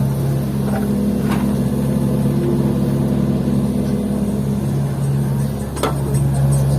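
Diesel engine running steadily under load while an excavator loads fill soil into a dump truck, with two sharp knocks, about a second in and near the end.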